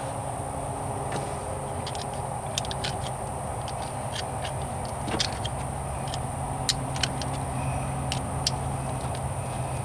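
Irregular sharp metallic clicks and ticks of hand tools working screw-type hose clamps on a rubber transmission cooler hose, over a steady low hum.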